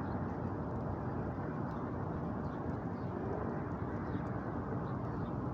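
Steady outdoor background noise, an even rumble and hiss with no distinct event.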